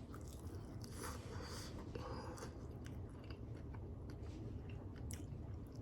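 Chewing on chicken wings: faint mouth sounds with a few small clicks.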